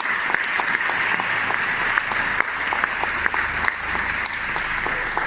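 Audience applause: a steady canned applause track of many hands clapping.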